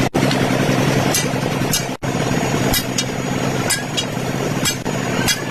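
An engine running steadily, with short sharp taps about every half-second to a second.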